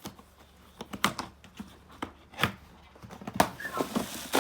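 A cardboard box being opened by hand: sharp knocks and clicks of the flaps and contents being handled, with packaging rustling in the last second or so.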